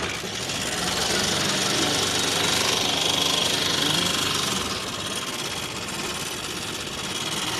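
Carburetted car engine starting up suddenly and running, louder for the first four or five seconds, then settling a little lower.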